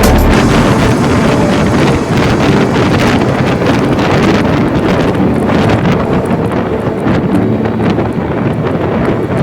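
Loud, steady wind rushing over the microphone of a moving vehicle, with an engine running faintly underneath.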